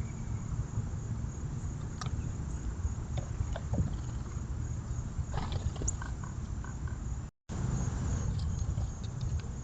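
Backyard outdoor ambience: a steady low rumble with a few faint, short bird chirps and clicks scattered through it. The sound cuts out completely for a moment about seven seconds in.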